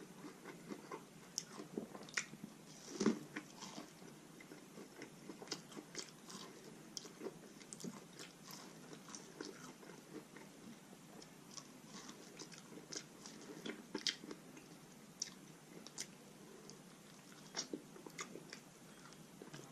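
A person chewing and eating food close to the microphone: many small, wet mouth clicks and smacks, with a slightly louder click about three seconds in.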